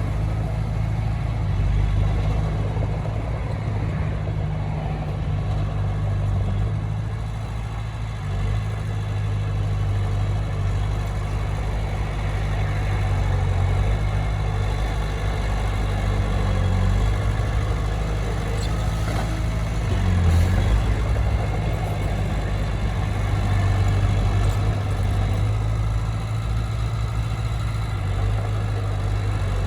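Diesel engine of a Komatsu D20P crawler bulldozer running steadily, its engine speed shifting slightly now and then, with a brief louder surge about two-thirds of the way through.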